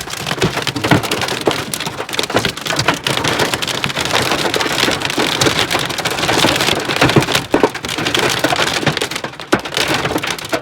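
Heavy rain mixed with hail: a dense steady rush with many sharp clicks of drops and hailstones striking hard surfaces.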